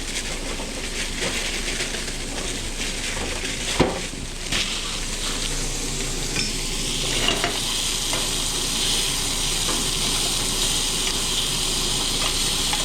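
Food sizzling steadily in a hot pan on the stove, with utensils stirring and clinking against it and one sharp knock about four seconds in.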